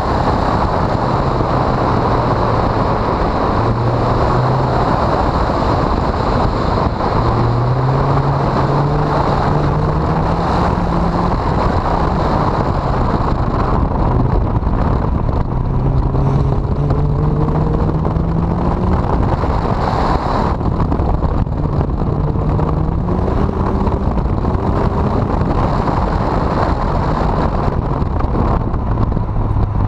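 Honda CRX engine pulling hard on track, its pitch climbing for a few seconds at a time and then dropping back, several times. It is largely buried under loud, rough wind and road noise on the microphone.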